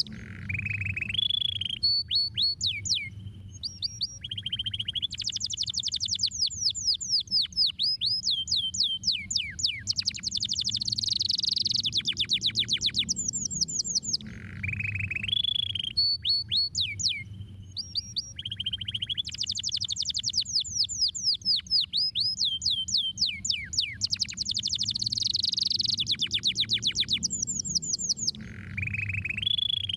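Domestic canary singing long rapid trills of quick falling notes, with brief pauses between phrases. The same song sequence comes round again about every 14 seconds, over a low steady hum.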